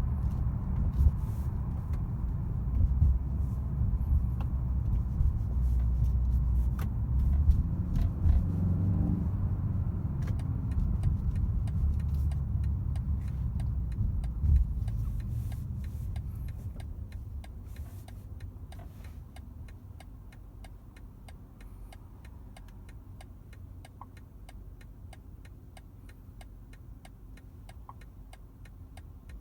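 A 2022 BMW 330i, with its turbocharged 2.0-litre four-cylinder, driving: a low rumble of engine and road noise that dies down after about fifteen seconds as the car eases off. A steady, rapid ticking runs through the second half.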